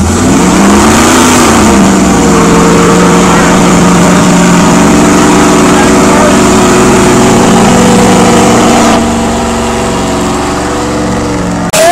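Car engine revved hard and held at high revs during a burnout. The revs ease off about nine seconds in, and the sound cuts off abruptly just before the end.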